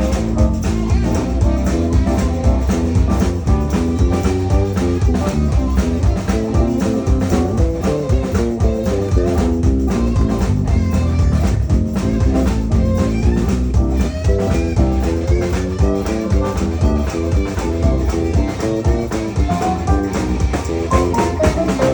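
Live band playing a guitar-led song with a strong bass line, stopping abruptly at the very end.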